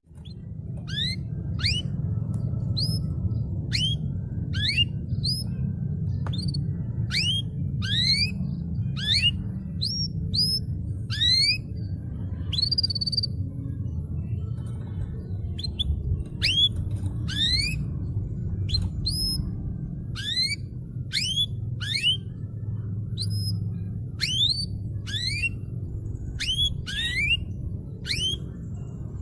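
Domestic canary calling: short, clear whistled notes that sweep upward, repeated in quick clusters of two or three, over a steady low rumble.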